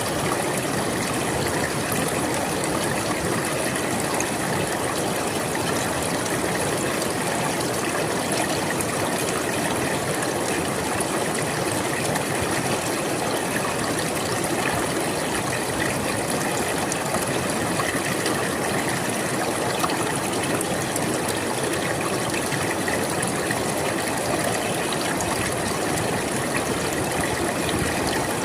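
River water flowing and rushing over rocks, a steady, even noise.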